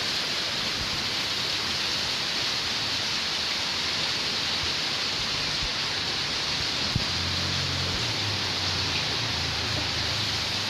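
Steady hiss of heavy rain, with a single knock about seven seconds in followed by a faint low hum for a few seconds.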